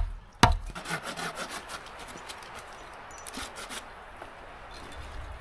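Wood being worked by hand: two sharp knocks on wood at the start, then about three seconds of rough scraping on wood that fades to a faint hiss.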